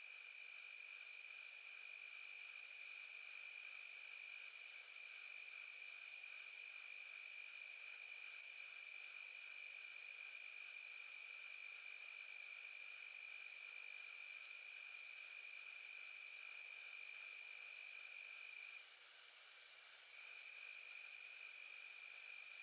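Field crickets chirping without a break, a dense high-pitched trill. A second, lower-pitched insect trill runs underneath and pauses briefly near the end.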